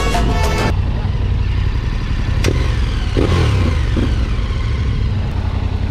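Adventure motorcycle engines running with a low, steady rumble and a short rev about three seconds in, plus a single sharp click a little before it.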